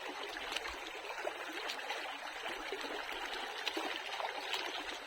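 A shallow river running and trickling over stones, a steady rush of water, with a few faint clicks over it.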